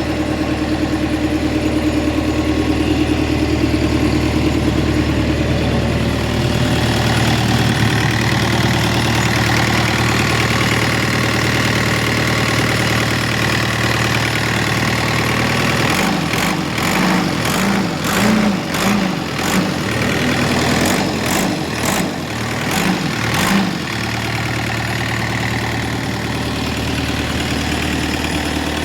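Kobelco SK50 mini excavator's diesel engine running at a steady idle. About halfway through, the engine note turns uneven and pulsing for several seconds, with sharp clicks over it, then settles back to a steady idle.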